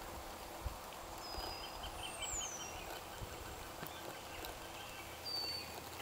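Faint birdsong over quiet outdoor ambience: a short high note about a second in, a quick run of short pips, then a high whistle that slides down, and another brief high note near the end.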